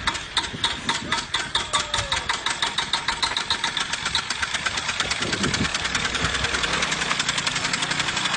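Motorcycle engine running with distinct, evenly spaced firing beats that steadily quicken, from about four a second to about ten a second, as it speeds up.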